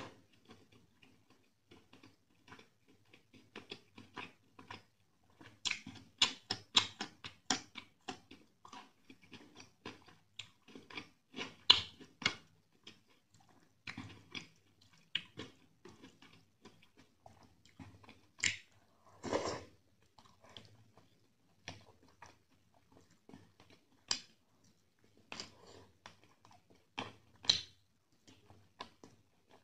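Close-miked chewing of rice and chicken curry eaten by hand: irregular wet mouth clicks and smacks, with one longer, louder sound a little past the middle.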